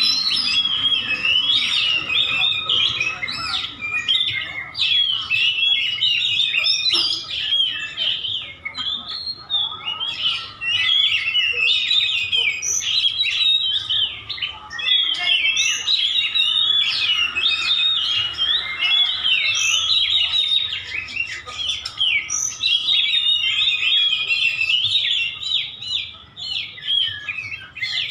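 Oriental magpie-robins (white-breasted kacer) singing without pause, a dense stream of rapid, varied whistled phrases.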